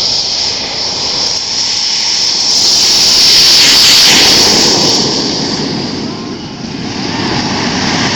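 RC model jet turbine engines at high power: a loud hissing whine that swells to its loudest about three to four seconds in, falls away, then rises again near the end.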